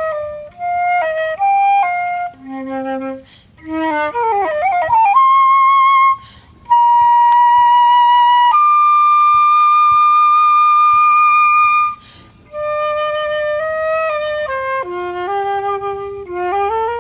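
Solo flute playing a melody: short stepped notes, a quick falling run about four seconds in, then two long held notes until about twelve seconds in, after which the stepped phrases resume.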